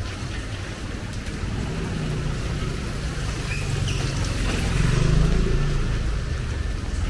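A motor vehicle passing on the street: its low engine rumble builds to a peak about five seconds in, then eases. Under it runs a steady hiss of rain and wet road.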